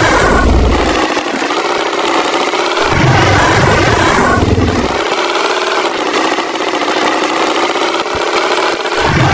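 Tractor engine sound effect running steadily, with a deeper rumble that swells and fades about every four seconds.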